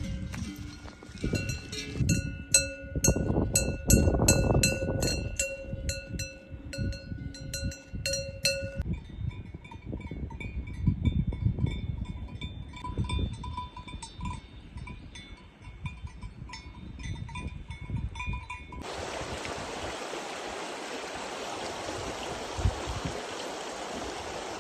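Cowbells on grazing livestock clanking, several bells ringing with repeated strikes; a different set of bells takes over about nine seconds in. About nineteen seconds in the bells give way abruptly to a steady rushing noise.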